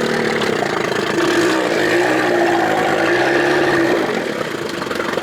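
2000 Johnson 25 hp two-stroke outboard running under way, its note swinging up and down twice, then easing off slightly about four seconds in.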